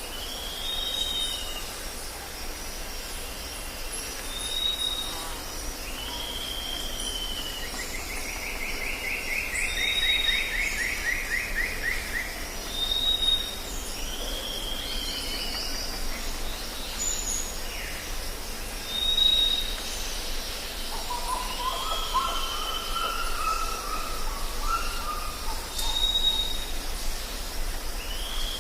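Jungle ambience: several birds calling over a steady high insect drone. A short high whistle repeats every few seconds alongside arched calls; a fast trill comes about a third of the way in, and a lower warbling call about three quarters through.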